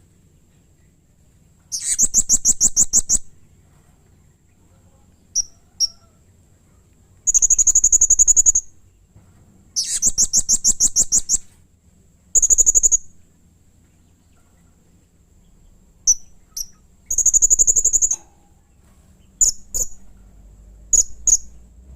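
Blue-crowned hanging parrot giving high, shrill, rapidly pulsed trills, five bursts of about a second each, with short single high chips between them.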